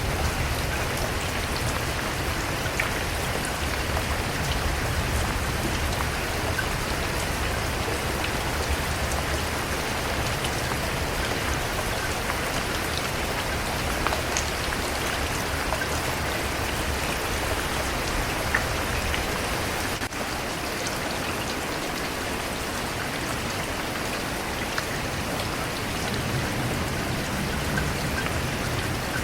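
Steady rain falling, with individual drops ticking on a surface over an even hiss.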